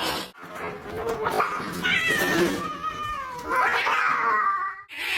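A cat caterwauling: long, wavering yowls that slide up and down in pitch, cutting off suddenly near the end.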